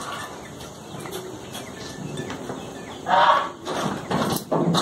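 A bird calling, once loudly about three seconds in and again briefly near the end, over a low farmyard background.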